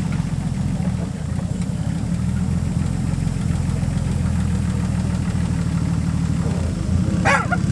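An engine idling steadily with an even low drone. A short, sharp sound cuts in near the end.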